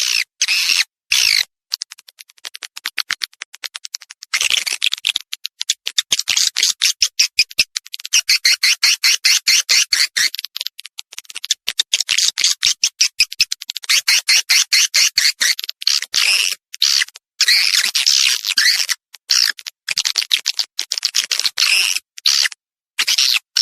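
Swiftlets twittering: rapid, high-pitched trains of chirps and clicks in bursts a second or a few seconds long, broken by short gaps.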